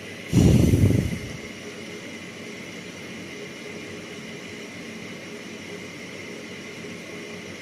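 Zanussi FL904NN washing machine running through its intensive rinse, a steady mix of machine and water noise with a faint high whine. About a third of a second in, a loud low rumble lasts about a second, then settles back to the steady running noise.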